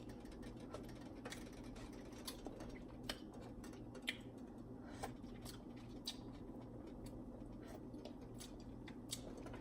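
Faint, irregular clicks and light taps, about a dozen spread unevenly, over a steady low hum.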